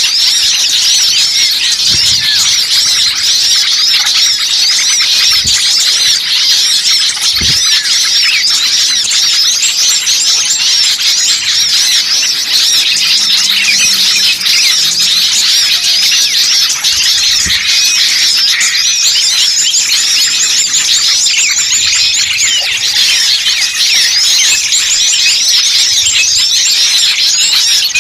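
Dense, loud chorus of many small songbirds chirping and twittering rapidly and without pause: a bird-lure recording of agitated small birds, used to draw wild birds in. A few faint low thumps sound under it.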